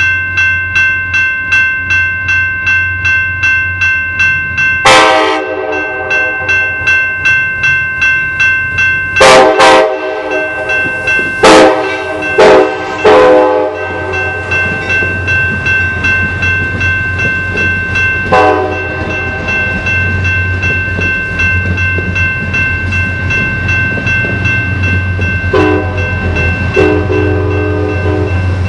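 Amtrak train passing, cab car leading and a GE P32-8BWH diesel pushing at the rear. The horn sounds a series of blasts, long and short, and a bell rings steadily at about two strokes a second. The diesel engine's low running grows stronger as the locomotive comes by near the end.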